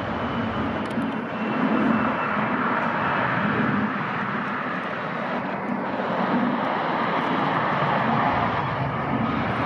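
Jet airliner's engines: a steady, even rushing noise, with a faint high whine that falls slightly in pitch over the first couple of seconds.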